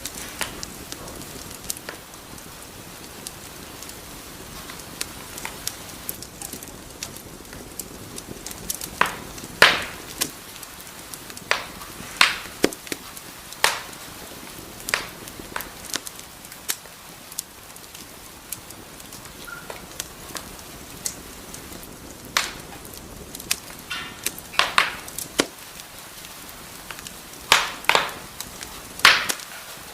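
Wood fire crackling in a fireplace: a steady soft hiss of burning with irregular sharp pops and snaps, several loud ones coming in clusters.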